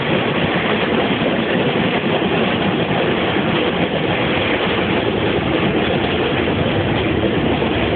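A train running on its rails, a loud steady rumble without a break.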